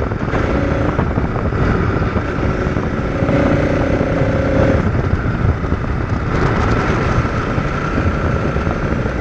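Motorcycle running while being ridden: steady, loud engine and road noise, with a faint held tone standing out for about a second and a half a few seconds in.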